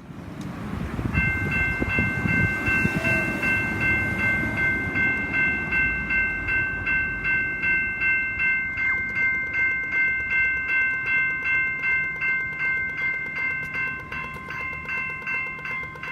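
GS Type 2 E level crossing bells ringing in an even, rapid pulse, about two and a half strokes a second, starting about a second in. Under them, a tram rumbles and clatters over the crossing for the first half, then fades.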